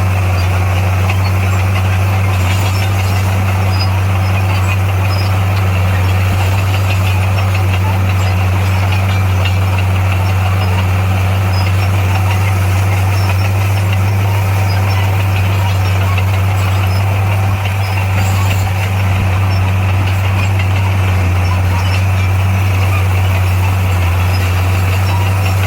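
Heavy diesel engine of earthmoving equipment running steadily with a low, constant drone.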